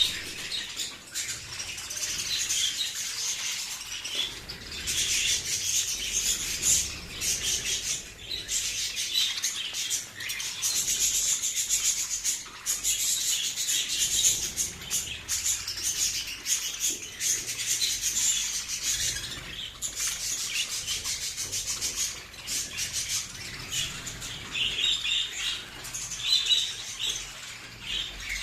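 Many budgerigars chattering and warbling at once in a colony aviary: a dense, continuous high-pitched flock chatter.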